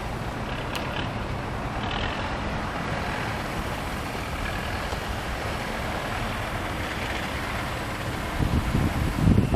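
2003 Volkswagen Touareg's 3.2-litre V6 idling steadily, heard at the dual exhaust. Near the end louder, uneven low rumbling noise comes in.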